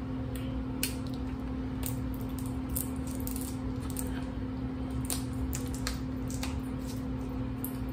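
Shells of boiled snow crab legs being cracked and picked apart by hand: scattered small cracks and clicks over a steady low hum.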